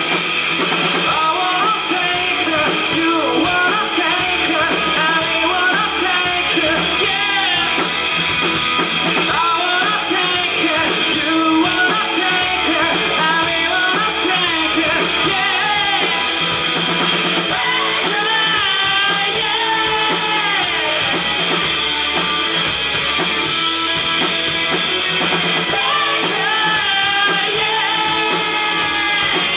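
Live rock band playing: vocals over electric guitar, bass and drum kit.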